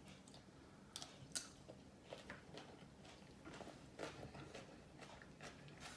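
Quiet eating sounds as coleslaw is scooped and eaten: faint scattered clicks and taps, the sharpest about a second in.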